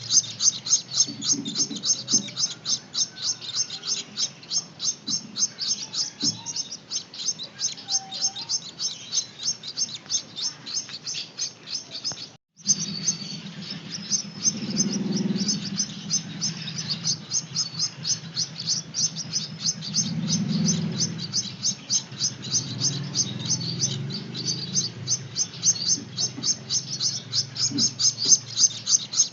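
Gouldian finch chicks begging for food with fast, high, repeated chirps, about four a second, as they are hand-fed. The chirping breaks off for a moment about twelve seconds in.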